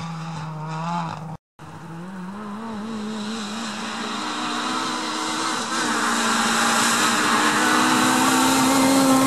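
Rally car engine held at high revs as the car races along a gravel road, pitch creeping up and growing steadily louder as it approaches. The sound drops out briefly about a second and a half in.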